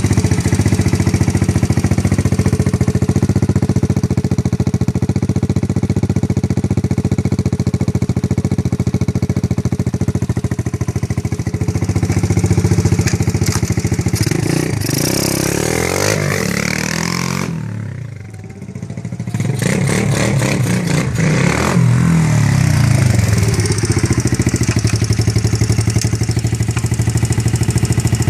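Terra Moto TDX 125F pit bike's single-cylinder four-stroke engine running steadily at idle. About halfway through it is revved, rising and falling in pitch, fades briefly to a much quieter level, then returns with more revving and settles back to a steady idle.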